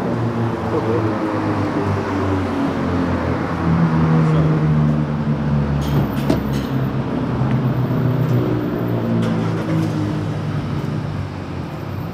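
A motor vehicle's engine running close by, its pitch drifting slightly up and down, growing quieter near the end, with a few sharp clicks about six seconds in.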